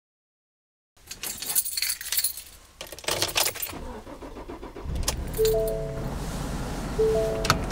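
Car keys jangle and click at the ignition, then the engine starts about five seconds in and runs at idle. A two-note electronic chime sounds twice over the running engine.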